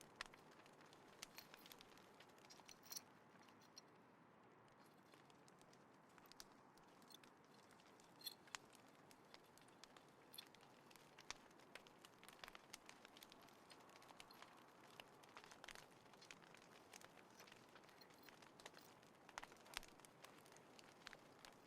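Small wood fire crackling faintly: irregular sharp pops and ticks over a low hiss.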